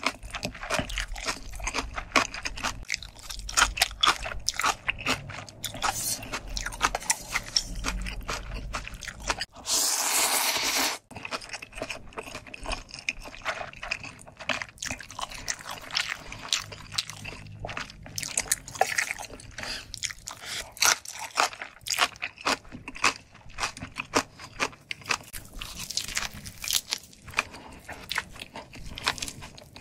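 Close-miked chewing of a mouthful of food: dense wet smacks and crunches. About ten seconds in, a loud, even rushing noise lasts about a second.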